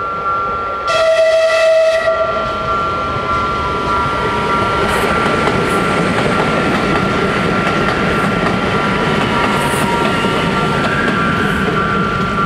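Level-crossing warning bells ringing as a Metrovalencia 4300-series electric train sounds a horn blast of about a second, starting about a second in. The train then passes over the crossing with steady rolling noise from its wheels on the rails.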